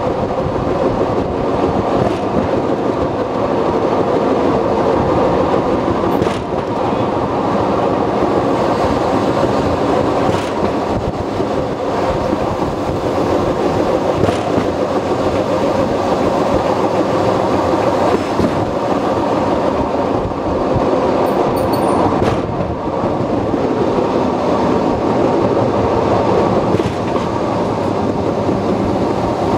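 Open-air trolley train of the Takachiho Amaterasu Railway running along the track: a steady rumble of wheels on rail, with a few faint clicks every few seconds.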